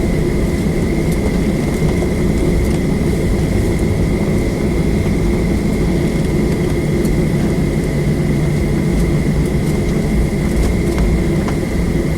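Steady jet engine noise heard inside the cabin of a Boeing 737 at ground idle: a continuous low rumble with a thin, steady high whine over it.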